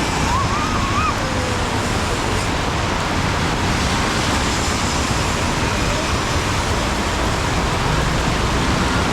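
Heavy rainstorm pouring steadily, a dense even hiss of rain.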